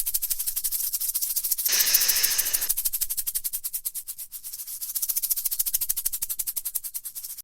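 A rattlesnake shaking its tail rattle: a rapid, dry buzzing rattle, the warning signal telling an intruder to back off. It swells into a louder, fuller burst about two seconds in, dips around four seconds, then picks up again.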